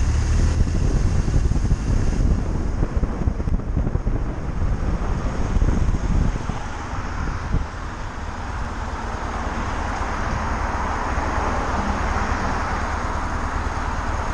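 Motorcycle engine running with wind rushing over the microphone; the engine's low rumble eases about halfway through while the wind noise grows louder.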